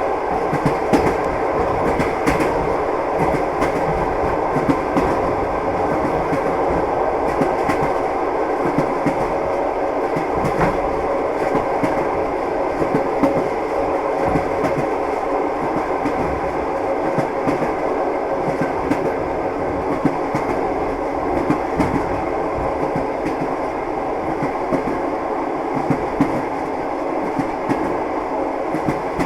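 Train wheels clattering over the rail joints: a steady running rumble with irregular clicks and knocks throughout.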